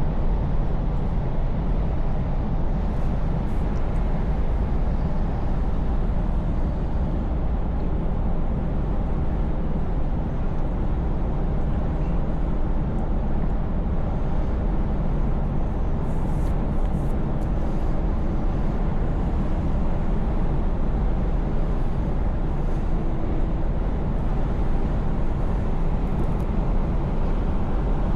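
Scania V8 truck cruising at a steady speed: an even, unchanging low engine drone with road noise.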